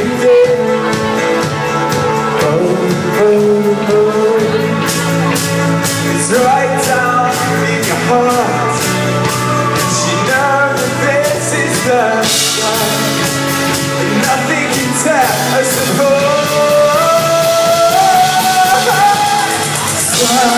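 Live pop-rock band playing in a large hall, with a voice carrying a held, sliding melody over the band that climbs in pitch near the end.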